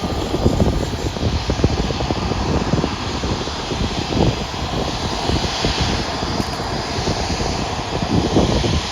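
Airbus A320 jet engines running at high power on departure, a loud, steady, rough rumble.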